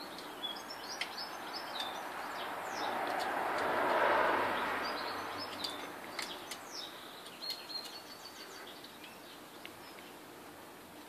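Small birds chirping in the background over a steady rush of noise that swells about four seconds in and then slowly fades, with a few faint clicks.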